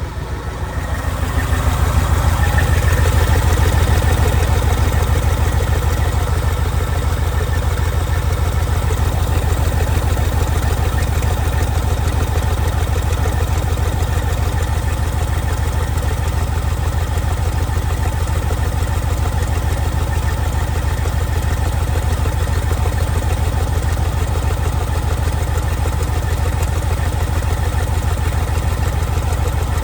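Caterpillar 3412E V12 diesel engine running; it grows louder about a second in, then settles into a steady run. The engine is putting out white smoke with engine oil in its exhaust.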